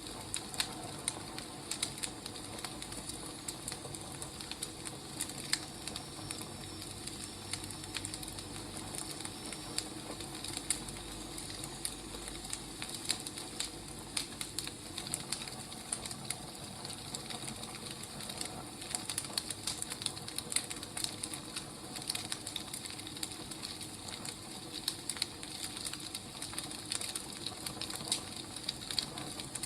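Wood fire crackling: a steady hiss dotted with irregular sharp pops and snaps.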